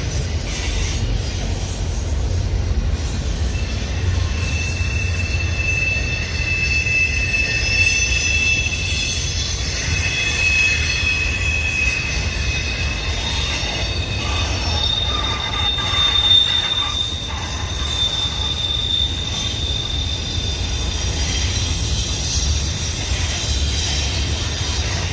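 Union Pacific intermodal freight train rolling past with a continuous low rumble of its cars. High, steady wheel squeals come and go through the middle of the passage.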